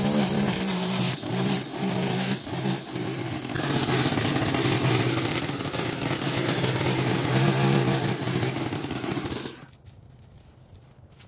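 Zero-turn riding mower engine running under load while cutting overgrown grass, with scattered knocks and clicks from the deck. The sound cuts off suddenly near the end.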